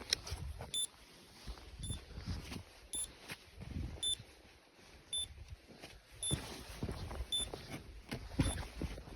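Hunting dog's beeper collar sounding a short, high electronic beep about once a second, eight times at a steady pace, over rustling and low thumps of movement through undergrowth.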